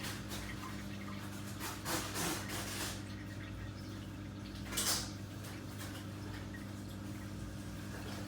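Bosch dishwasher running: a steady motor hum with water sloshing and spraying inside the tub, swelling for about a second around two seconds in and again in a short surge near five seconds.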